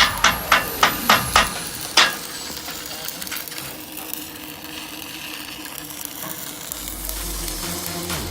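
Sharp drum-like hits, about three a second, for the first two seconds, then a steady crackling hiss for the rest.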